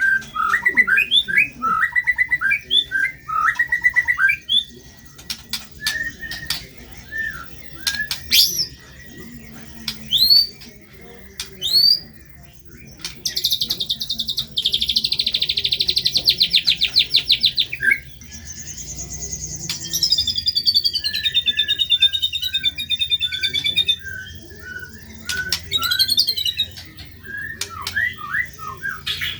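White-rumped shama (murai batu) singing a varied, rapid song. It runs through repeated short whistled notes and sharp upswept calls, a fast dense trill about halfway through, then a falling warbled run.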